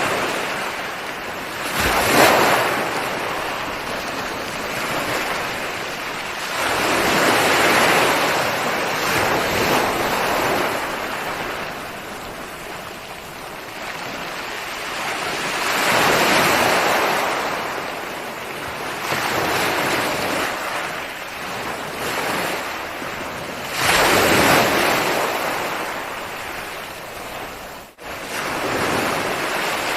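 Ocean waves breaking and washing on a shore, surging and ebbing every few seconds, with the strongest break about two seconds in and another near 24 s. Near the end the sound drops out for an instant and comes straight back.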